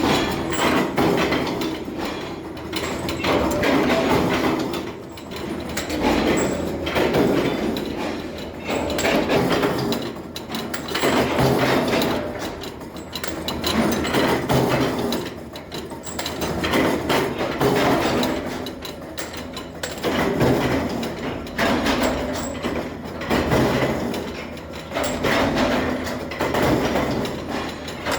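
Metalworking machinery in a bolt factory, clanking and knocking in a regular cycle that swells and falls about every two seconds.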